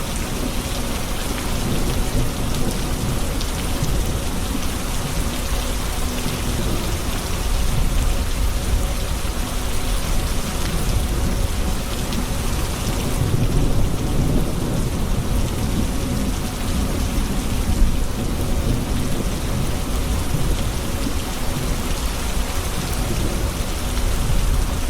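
Steady rain falling, with low thunder rumbling underneath that swells about a third of the way in and again past the middle.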